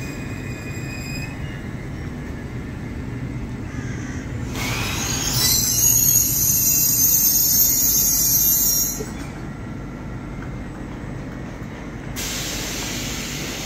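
Trains at a station platform beside a standing electric train: a steady low hum. From about four seconds it swells into a loud stretch of high-pitched squeal and hiss, typical of train wheels on the rails, which stops abruptly around nine seconds. A sudden steady hiss starts near the end.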